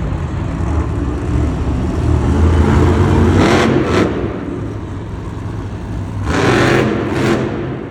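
Monster truck's supercharged V8 engine running and revving hard, with two loud surges about three and a half and six and a half seconds in.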